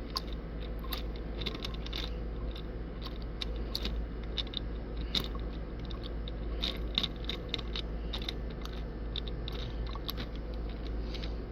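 Irregular crunching and scraping clicks of plastic sprinkler valve parts being worked loose by hand, over a steady low hum.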